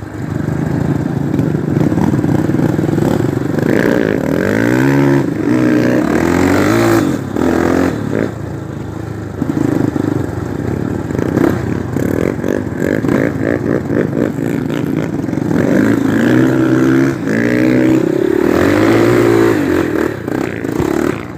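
Single-cylinder four-stroke trail motorcycle engine running under load, its pitch rising and falling repeatedly with throttle and gear changes. The engine revs up about four seconds in and again near the end.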